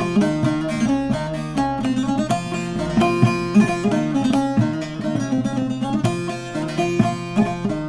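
Short-neck bağlama with a mulberry bowl, picked with a plectrum: a türkü played as a steady stream of quick plucked notes.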